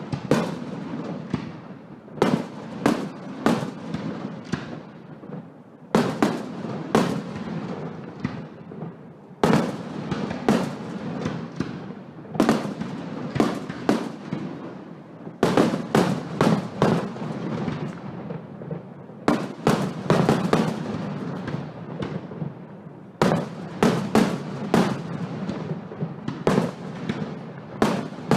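Firework shells going off in rapid volleys of sharp bangs, a new cluster every few seconds, each bang trailing off before the next.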